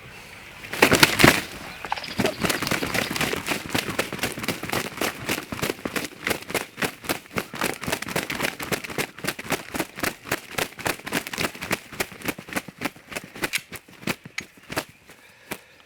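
A freshly shot wild turkey flopping in its death throes, wings beating hard against the ground and dry leaves in rapid, irregular cracking flaps. The flaps are loudest about a second in, then come further apart and weaker toward the end.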